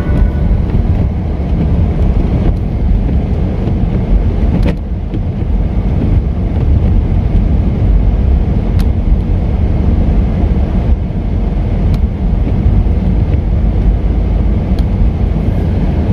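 Steady low rumble of a car being driven, engine and road noise heard from inside the cabin, with a few faint, scattered clicks.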